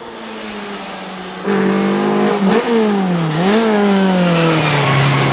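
Historic rally car engine running hard on a stage, growing much louder about one and a half seconds in as the car comes close. The engine note dips and climbs again once around the middle, then falls slowly toward the end.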